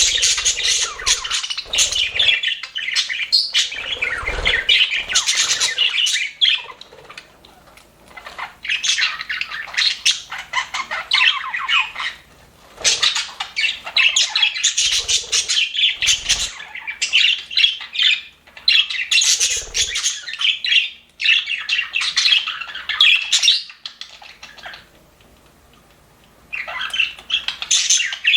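Several budgerigars chattering and warbling with squawks, in bouts broken by brief pauses, the longest a couple of seconds near the end. A few soft low thumps sound among the calls.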